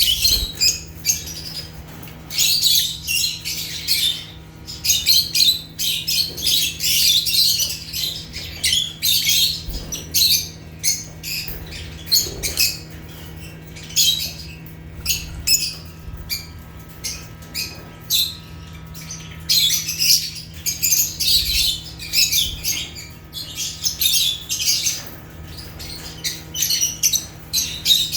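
Lovebirds chirping and squawking in a rapid, shrill chatter that comes in clusters with short lulls, over a steady low hum.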